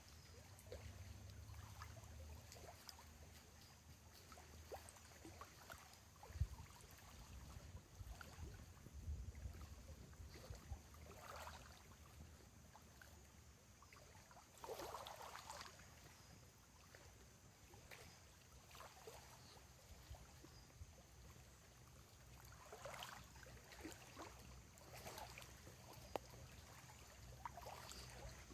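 Near silence with faint water lapping on the lakeshore, several soft swells at irregular intervals over a low steady rumble.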